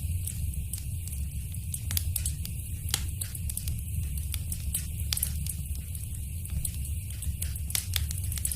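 Fire crackling in a fireplace: irregular sharp pops and snaps, a few clearly louder than the rest, over a steady low rumble of the flames.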